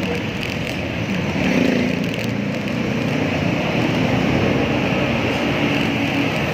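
Steady road noise heard while cycling: passing motor traffic and a continuous hiss of wind and tyres on the microphone.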